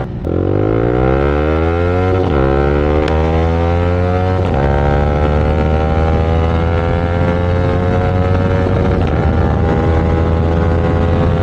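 Yamaha R15 V4's single-cylinder engine through an SC Project full-system exhaust, accelerating hard: the pitch climbs, breaks at two upshifts about two and four and a half seconds in, then settles into a steady, slowly rising note at speed.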